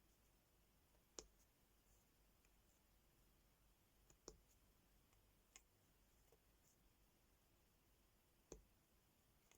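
Faint, sparse clicks, about four sharp ones over nine seconds with a few softer ticks between them: small plastic diamond-art drills being tapped into place on a sticker with the applicator pen.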